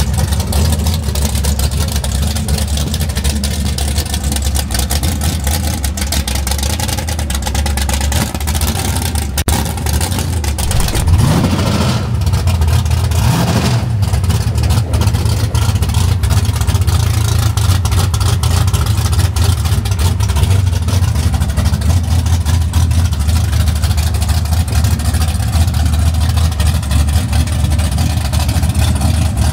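A 2023 COPO Camaro's V8 idling with a steady low rumble, revved up briefly twice near the middle.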